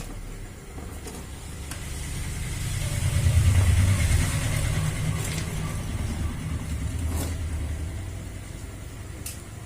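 A vehicle engine's low rumble that swells to a peak about three and a half seconds in, then slowly eases off.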